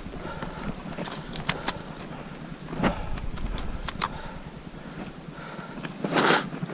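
Boots scrambling up a steep slope of loose rock: scattered sharp clicks and clacks of stones knocking together underfoot, with a louder rush of noise near the end.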